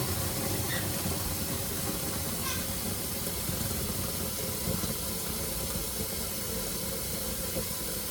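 Water running steadily from a tap, filling the tub of a mini washing machine: an even hiss.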